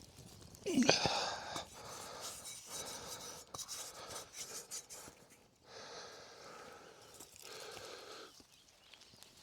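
A person blowing long breaths into a small fire to feed it air, about four times with pauses between; the first, about a second in, is the loudest and has a brief grunt of voice in it.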